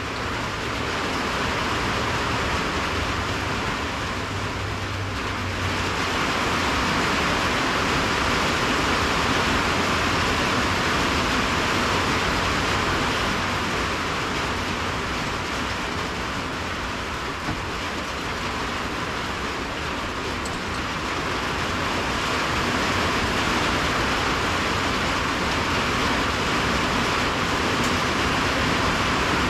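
Heavy rain coming down, a steady loud hiss that swells and eases slightly, with a faint low rumble underneath for the first few seconds.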